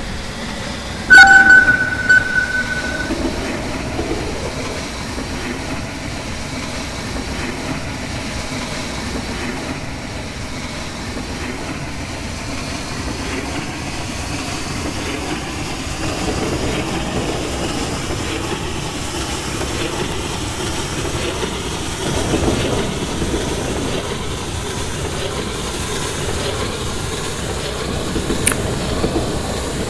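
Passenger train running on the rails, a steady rumble with wheels clicking over the track joints. About a second in, a loud high-pitched tone sounds for about two seconds.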